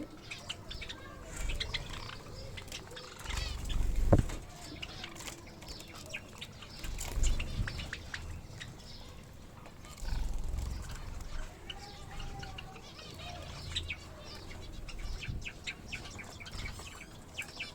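Pet finches chirping with short, sharp calls and fluttering their wings, over low rumbling, with one loud knock about four seconds in.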